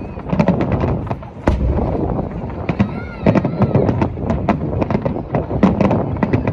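Aerial fireworks display bursting in rapid succession: many sharp bangs, several a second at times, over a continuous low rumble.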